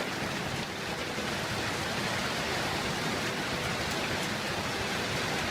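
Heavy hailstorm pelting down: a steady, unbroken hiss of hail and rain.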